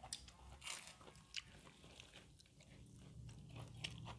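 Faint close-up eating sounds: chewing and crunching of food, with a few short sharp crunches or clicks scattered through.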